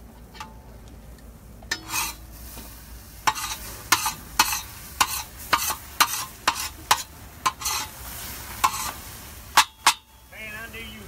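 A spatula scraping and knocking against a hot pan as food is stirred while frying. There are about a dozen sharp strokes at irregular intervals over a faint sizzle.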